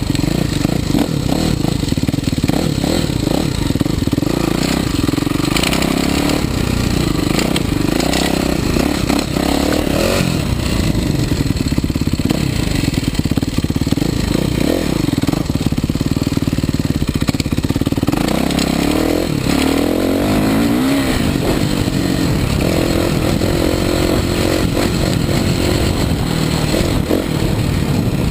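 Kawasaki KX450 four-stroke single-cylinder motocross bike being ridden, its engine running continuously and rising and falling in pitch as the throttle is opened and closed.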